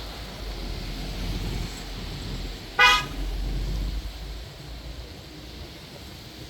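One short toot of a vehicle horn about three seconds in, over steady rain and traffic noise. A low engine rumble drops away soon after.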